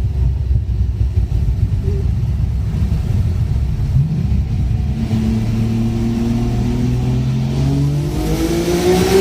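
Nissan Skyline R33 GTR's built twin-turbo RB26DETT straight-six under way: a rough low rumble at first, then from about four seconds in the engine note climbs steadily as it revs up under acceleration, growing louder and harsher near the end.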